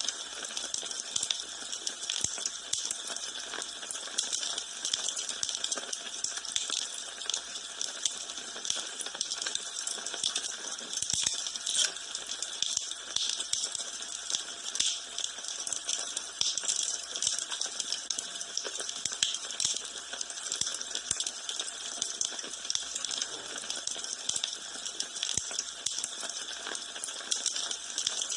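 Wood fire burning in a fireplace: a steady hiss with constant small crackles and pops, and now and then a sharper snap.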